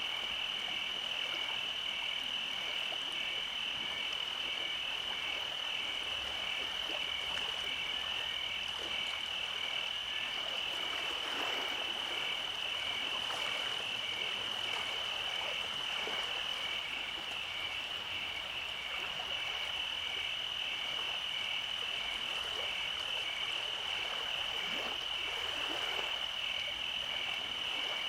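Steady night chorus of frogs and insects: a continuous high trill with a rapidly pulsing trill just below it, unchanging throughout.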